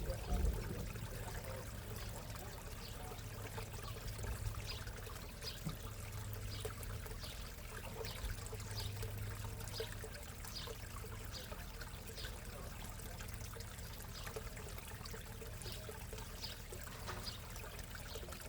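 Backyard pond water trickling steadily. A faint high tick repeats a little more than once a second through the middle.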